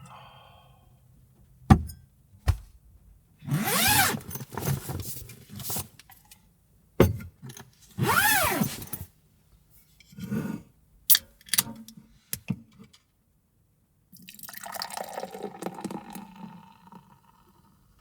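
Liquid being poured into a container in several short pours, with sharp clicks and knocks from handling between them and a longer pour near the end.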